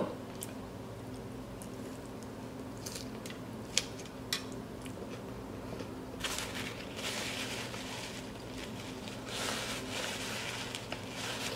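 Faint chewing of soft, sauce-covered fries with a few small mouth clicks, then paper napkin rustling in two stretches in the second half as the mouth is wiped. A low steady hum runs underneath.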